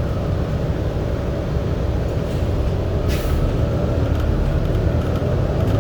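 Subway train car running with a steady low rumble, and a short hiss of air about three seconds in.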